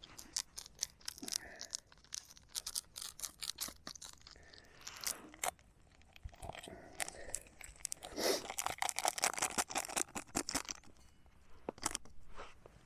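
Someone chewing a crunchy Belvita breakfast biscuit close to the microphone: a dense run of short crunches, busiest from about eight to eleven seconds in.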